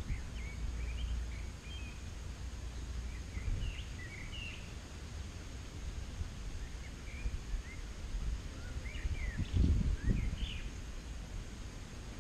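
Small birds chirping and twittering in short, scattered calls, over a low rumble of wind on the microphone that swells briefly about three-quarters of the way through.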